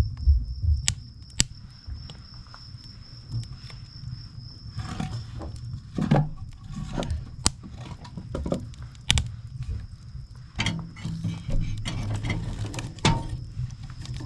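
Firewood burning, crackling with irregular sharp pops and snaps over a low rumble of the flames. A steady high trill runs underneath.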